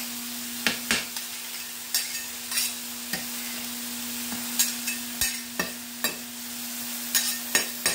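Food frying with a steady sizzle on a hot cooking surface, while a utensil knocks and scrapes against it at irregular moments as the food is stirred and turned.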